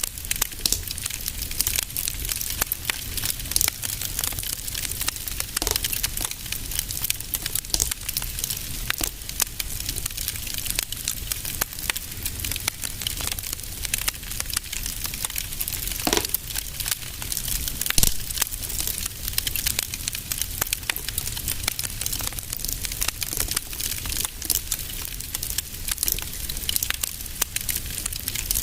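Wood fire burning in a fireplace, crackling steadily with many small pops over a low steady rumble, and a couple of louder pops just past the middle.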